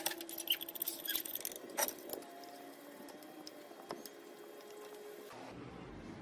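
A series of light clicks and taps, thickest in the first two seconds and thinning out after, over a faint steady background.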